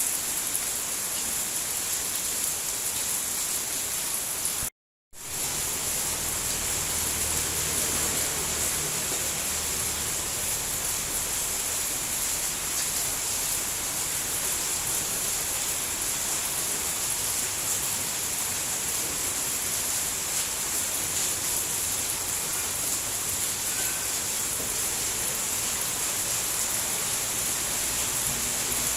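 Steady rain shower, a continuous even hiss. It cuts out to silence for a split second about five seconds in, then resumes.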